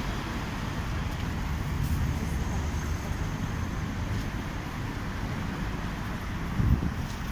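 Steady city street traffic noise: cars passing with a constant low rumble, and a short low thud near the end.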